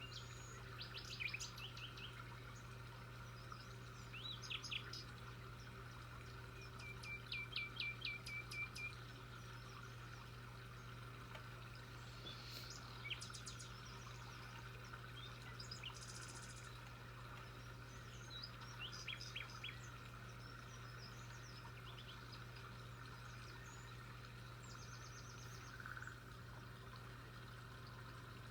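Small birds chirping and calling intermittently, with one quick trill of about ten repeated notes about a quarter of the way in, over a faint steady low hum.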